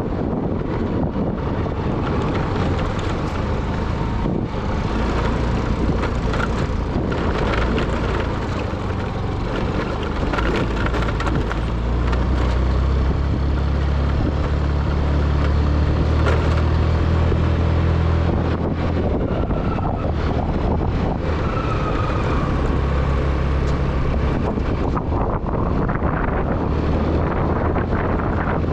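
A vehicle's engine running steadily while driving, with wind buffeting the microphone. The engine gets louder for a few seconds around the middle.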